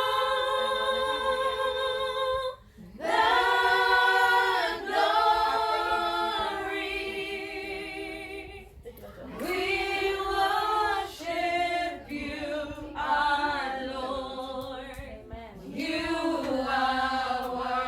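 A group of voices singing unaccompanied in slow phrases of long held notes, several pitches together in harmony.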